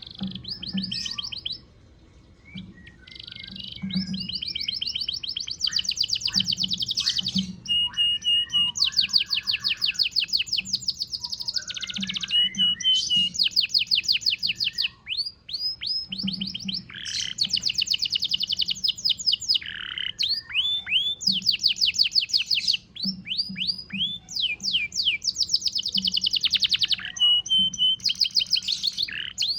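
Domestic canary singing continuously even while molting: fast rattling trills and rolls in phrases of a second or two, broken by short pauses and a few sliding whistled notes.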